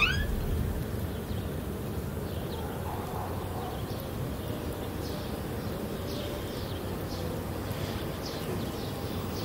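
Quiet outdoor ambience: a steady low background hum with faint, scattered short bird chirps. A door's creak trails off at the very start.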